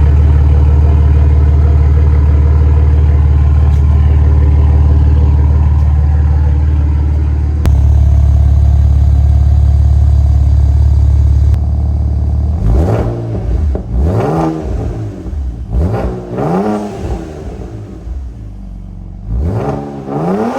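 BMW 335's turbocharged inline-six on a straight-piped exhaust: a loud, steady low drone while cruising, then from about twelve seconds in the engine revs up and drops back several times.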